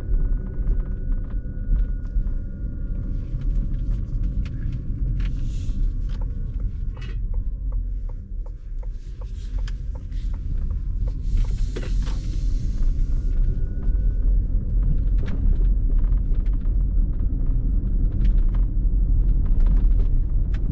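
Low, steady road rumble inside the cabin of a Ford Mustang Mach-E electric car on the move. Faint whining tones slide slowly lower over the first several seconds. Scattered light clicks run throughout, with a brief hiss about halfway through.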